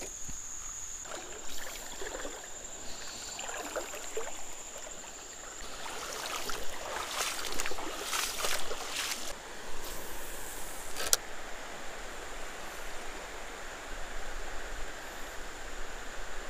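Water sloshing and splashing in a river, in irregular bursts, over a steady high-pitched whine.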